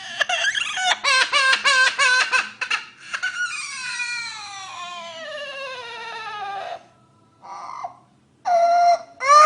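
A parrot imitating a baby crying: a quick run of short sobbing cries, then one long wail that slides down in pitch, and after a brief pause it starts crying loudly again near the end.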